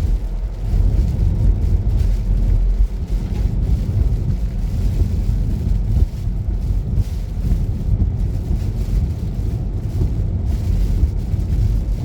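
Car driving on a snowy road: a steady low rumble of engine and road noise.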